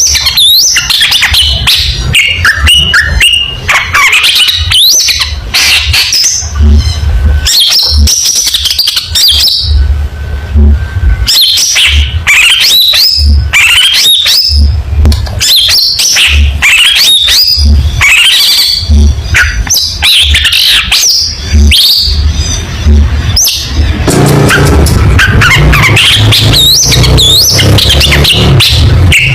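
Long-tailed shrike (cendet) singing a rapid, varied song of chirps, harsh notes and gliding whistles, broken by brief pauses. A low rumble runs underneath.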